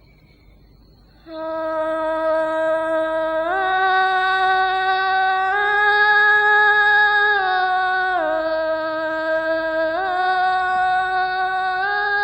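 A female voice holding a wordless sarabhanya-style melisma: long sustained notes that step up and down in pitch, starting about a second in after a brief quiet.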